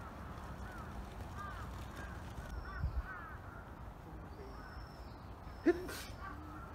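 Birds calling outdoors: a run of short chirps, then one loud call near the end.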